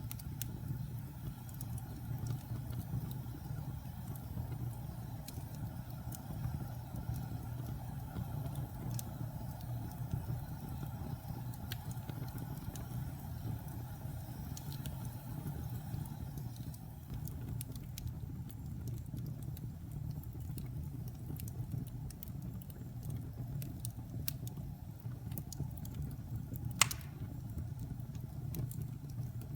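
Fire burning in a fireplace: a steady low rumble with scattered small crackles, and one sharp, loud pop near the end.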